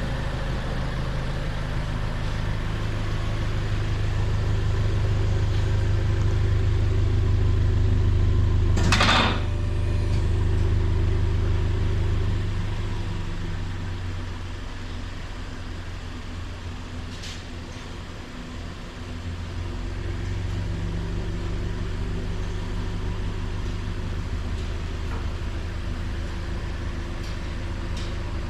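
Exhaust of a 2018 Toyota Sienta 1.8 through a single-can, single-outlet aftermarket rear muffler, giving a steady low drone. It swells over the first nine seconds, eases off midway and builds again, with a sharp knock about nine seconds in.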